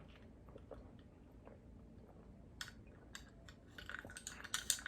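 Faint chewing and mouth sounds while eating, then a quick run of light clicks and clinks in the last second.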